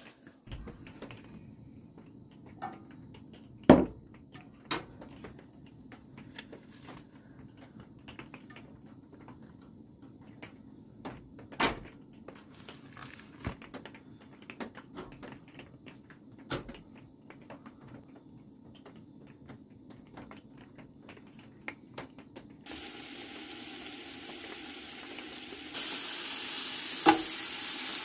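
Cooking on a small stove: scattered clicks and knocks of pots, pans and utensils being handled, then a steady sizzling hiss that starts about three-quarters of the way through and gets louder near the end, as food begins frying in a hot pan.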